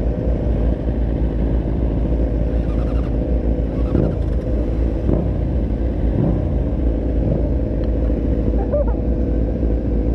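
Motorcycle engine running while riding, under heavy wind noise on the microphone. The engine pitch drops and rises a few times in the middle.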